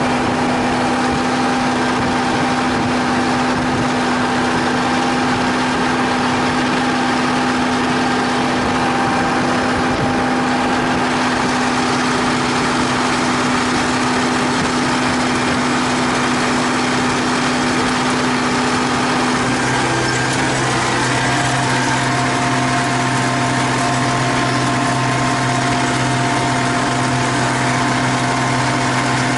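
T-150K tractor diesel engine running steadily. Its note changes about two-thirds of the way through, as a lower tone comes in.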